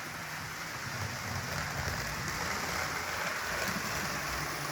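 HO scale model train running on sectional track: a steady rolling rush of metal wheels on the rails with a low motor hum underneath.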